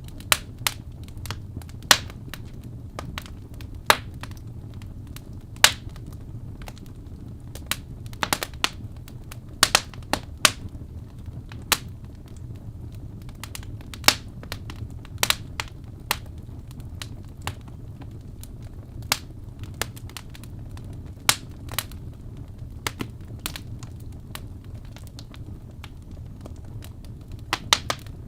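Wood fire burning in a fireplace, crackling and popping irregularly over a low, steady rumble of the flames.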